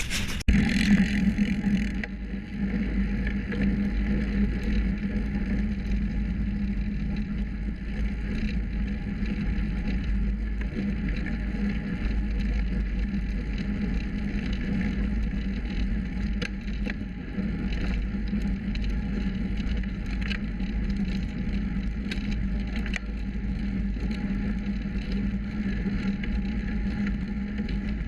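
Road bicycle being ridden, heard through a bike-mounted action camera: steady wind and tyre rumble with a constant low drone. There are a few faint ticks and rattles, which the rider takes for the gear cables rattling against their casing.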